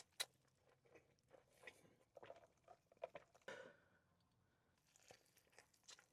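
Faint close-up chewing and biting: a person eating with their mouth near the microphone, with irregular soft crunches and mouth clicks and a short lull about two-thirds of the way through.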